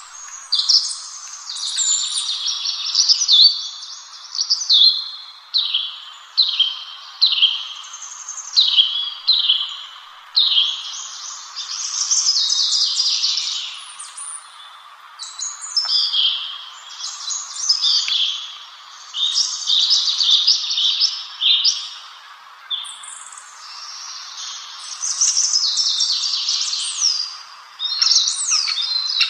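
A songbird singing a long, unbroken run of quick, varied high-pitched phrases over a steady faint hiss.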